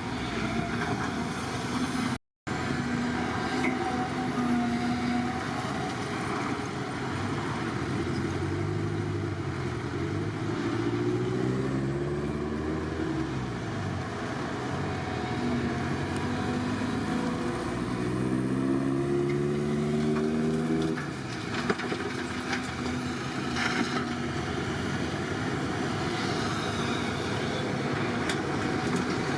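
Excavator diesel engine running steadily, its pitch rising and falling repeatedly in the middle as it revs under hydraulic load, with a brief gap in the sound about two seconds in.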